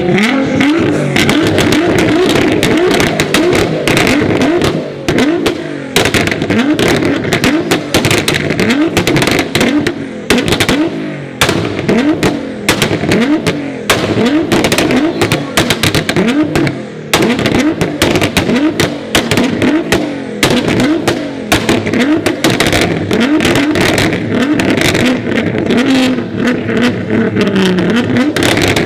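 A tuned car engine is revved hard again and again, its pitch climbing and dropping in quick blips about once a second. Loud exhaust pops and bangs crackle throughout.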